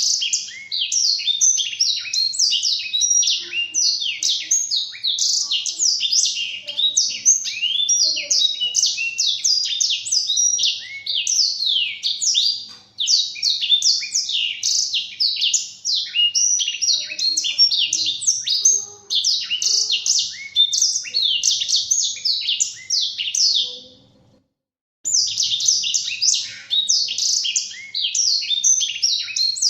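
Black-throated canary (blackthroat) singing a long, fast, unbroken warble of rapid high chirps and trills. The song cuts off for about a second some twenty-four seconds in, then resumes.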